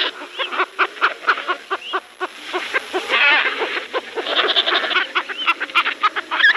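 Penguins calling: a quick series of short pitched calls, several a second, with a few short rising notes.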